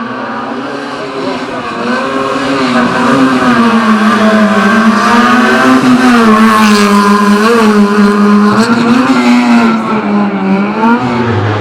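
Small-engined hill-slalom race prototype running at high revs, its pitch rising and dipping with throttle and gear changes. It grows louder as the car approaches, then eases off near the end as it moves away.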